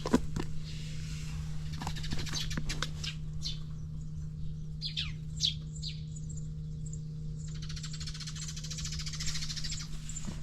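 Birds chirping, with short high calls and quick downward glides, over a steady low hum.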